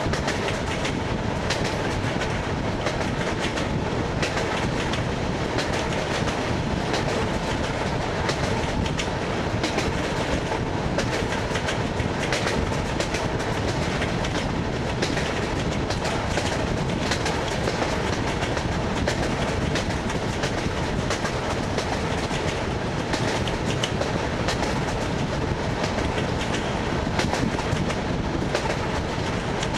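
ED9MK electric multiple unit running at speed on jointed track, heard from inside the car: a steady rolling rumble with the wheels clattering over the rail joints throughout.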